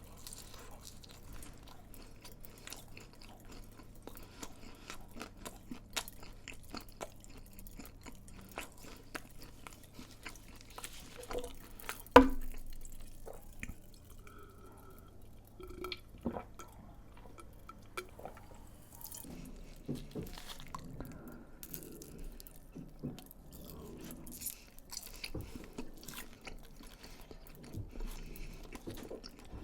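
Close-miked chewing of crisp fried food, with many small crackling crunches and wet chewing. One sharp knock sounds about twelve seconds in.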